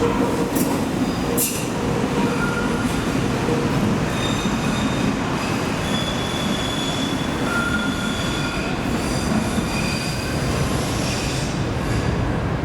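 Train running on rails with its wheels squealing: high steady whistling tones come and go over a continuous rumble of wheels on track.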